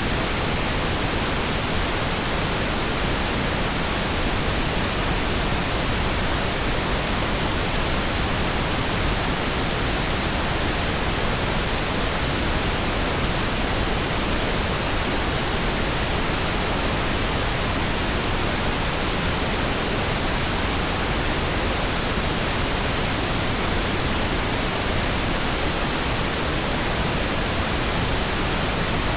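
Steady, continuous pink noise: an even hiss spread across all pitches, with no changes or breaks.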